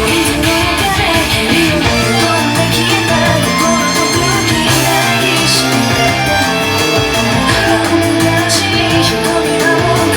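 Guitar-driven rock music played back through car audio speakers as a listening test.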